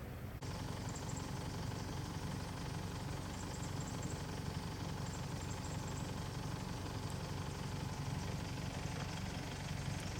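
A vehicle engine idling steadily, a low even hum that begins just after a cut near the start.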